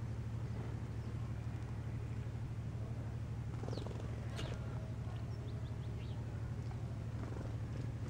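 A steady low rumble throughout, with a few short bird chirps about halfway through.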